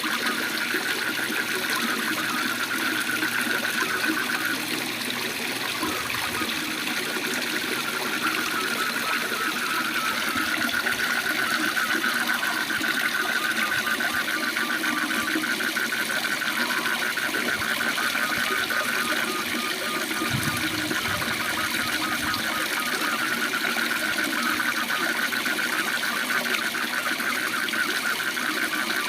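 Waterfall water rushing steadily, with frogs calling in a fast, continuous pulsing trill that swells and fades over it.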